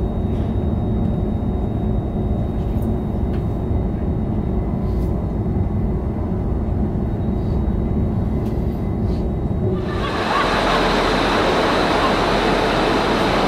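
Steady low rumble of a moving train. About ten seconds in it cuts abruptly to a loud, even rushing hiss.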